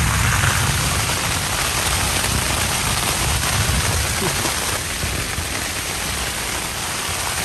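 Heavy rain and strong storm wind beating on a tent, a dense, steady wash of noise with wind rumbling on the microphone.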